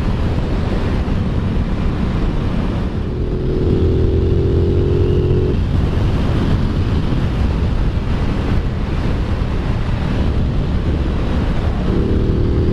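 Aprilia Tuono 660 parallel-twin engine running on the road with heavy riding wind noise. A higher droning engine note comes in twice, a couple of seconds each time, sinking slightly in pitch.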